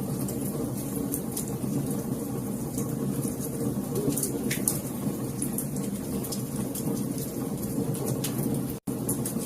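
Wood fire crackling in a fireplace: a steady low rumble of burning with scattered sharp pops and snaps. The sound cuts out for an instant near the end.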